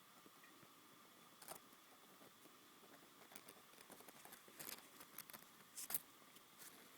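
Faint scattered clicks and light rustles, about half a dozen, the loudest near the end, over a quiet steady hiss with a faint hum.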